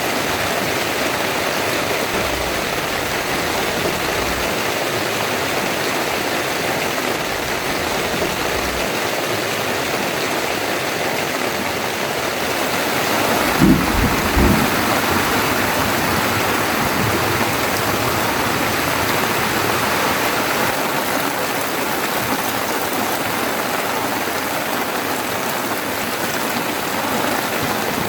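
Heavy rain pouring steadily, with two or three short low thuds about halfway through.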